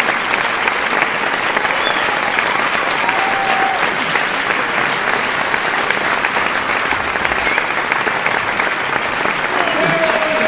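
A crowd applauding: many hands clapping at once in a dense, steady patter that holds its level throughout.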